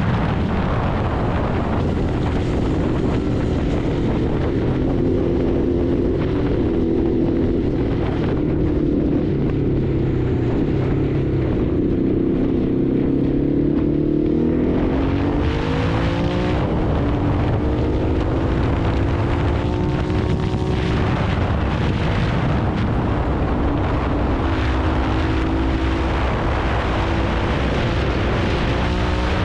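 Ducati Hypermotard motorcycle engine running under way, holding a steady pitch for the first half, then revving up with a rising pitch about halfway through and again near the end.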